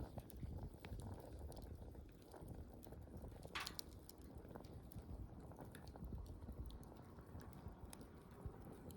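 Wood campfire burning: irregular crackles and pops over a low rumble of flames, with one louder pop and a brief hiss about three and a half seconds in.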